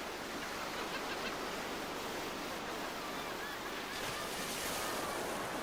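Sea surf: a steady rush of waves washing, swelling up just as it begins.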